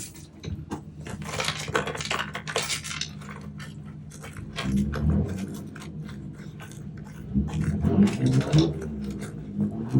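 Light clicking and clattering of small parts being handled at a pickup bed drain, in short irregular bursts.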